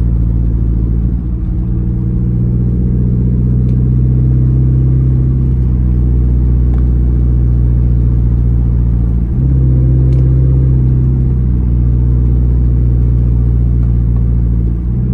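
2012 Dodge Charger SRT8's 6.4-litre HEMI V8 with a straight-piped exhaust, running steadily at a low, even pitch with no pops. It gets a little louder about nine seconds in.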